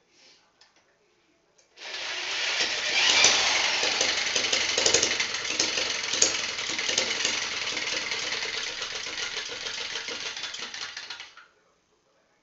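Small homemade engine running with a fast, rattling chatter. It starts abruptly about two seconds in, runs steadily for about nine seconds and cuts off suddenly near the end.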